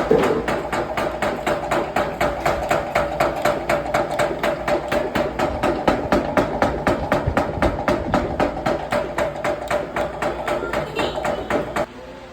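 Honey extractor spinning, with a rhythmic knocking at about five knocks a second as the extractor, which will not sit level, rocks; the knocking stops abruptly near the end.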